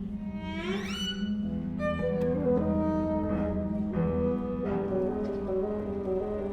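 Contemporary chamber music for bassoon and ensemble with strings, winds, harp and piano: low sustained notes held under an upward glide about a second in, with new chords entering sharply around two seconds and again near five seconds.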